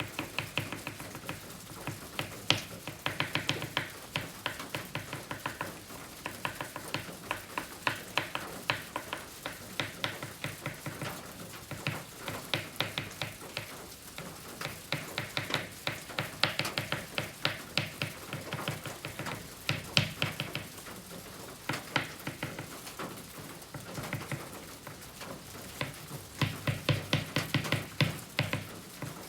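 Oil pastel stick scratching and tapping across kraft paper in quick short strokes, coming in bursts of rapid ticks with brief pauses between them.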